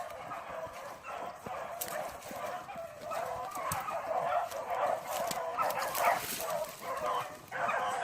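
A pack of rabbit-hunting hounds baying and yipping on a rabbit's trail, many overlapping cries that grow louder after a few seconds as the chase comes closer.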